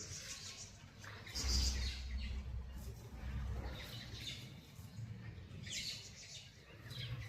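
Wild birds chirping in short bursts of high chirps every second or two. A low rumble runs under the chirps from about a second in to about halfway through.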